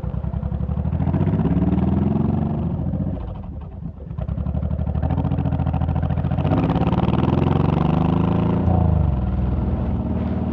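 Honda VTX1800's V-twin engine accelerating: its pitch climbs through the gears, with short dips at the shifts, then eases off near the end.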